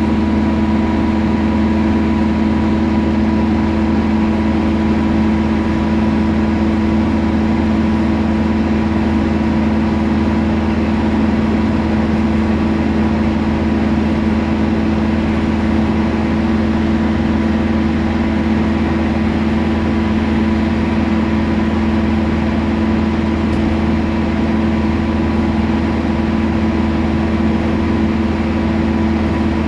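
Temsa Prestij SX midibus running steadily, an even engine hum with a low rumble and a constant pitch, no revving or change in speed.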